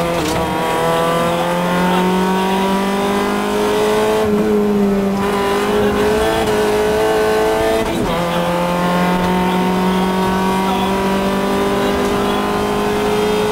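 Fiat Cinquecento rally car's engine, heard from inside the cabin, pulling hard under acceleration with its pitch climbing steadily. It drops at a gear change right at the start and again at an upshift about eight seconds in.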